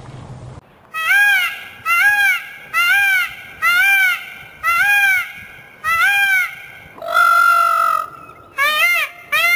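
Male Indian peafowl calling: a series of loud, arching calls about one a second, one longer held call about seven seconds in, then quicker calls about two a second near the end.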